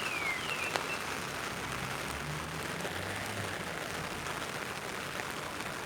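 Steady rain hiss on a city street. In the first half second come the last of a run of repeated falling high chirps, and a low engine rumble passes through the middle.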